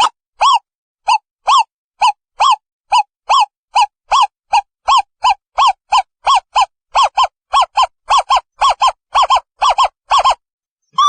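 An owl calling a long series of short hoots, each rising and falling in pitch, speeding up from about two a second to three or four a second, some coming in pairs near the end.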